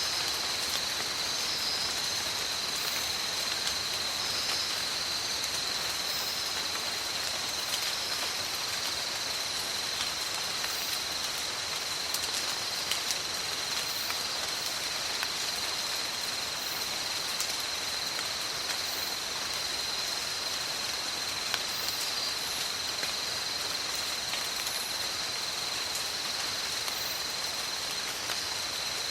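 Steady tropical rainforest rain falling, with scattered sharper drop ticks, over a continuous high-pitched drone.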